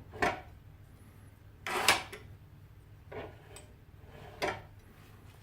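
StoveR double radius fireplace door with panoramic glass being opened and shut, giving about four short clunks and clicks of its door leaves and latch, the loudest about two seconds in.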